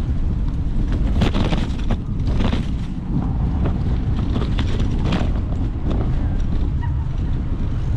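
Wind buffeting a bike-mounted camera's microphone while riding, a heavy low rumble with scattered clicks and rattles throughout.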